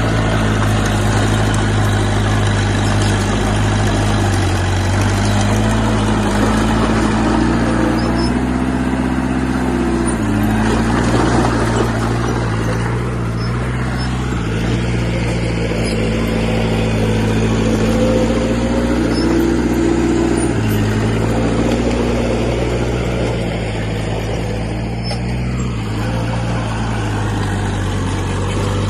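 Diesel engine of heavy earthmoving machinery running steadily, its note shifting up and down a few times as the load and revs change.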